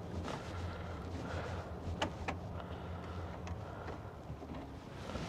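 A steady low hum, with two sharp knocks close together about two seconds in.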